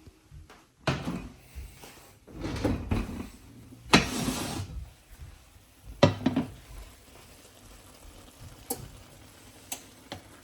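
Cookware being handled: a run of separate knocks and clatters of pots and pans, with a longer rushing noise about four seconds in and the sharpest knock about six seconds in.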